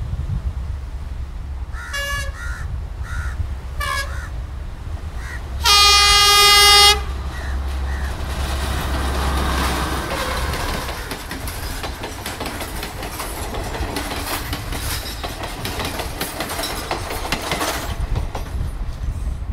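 Sri Lanka Railways diesel power set passing: its diesel engine drones low, the horn sounds one loud steady blast of a bit over a second about six seconds in, then the carriages clatter past close by over the rail joints for about ten seconds before fading out near the end.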